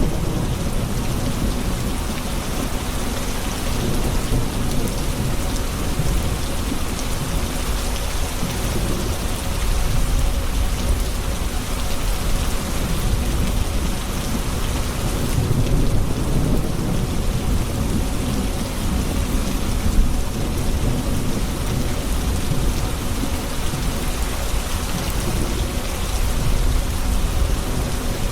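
Thunderstorm: steady heavy rain hissing on surfaces under continuous low rolling thunder that swells and fades, with one brief sharp peak about two-thirds of the way through.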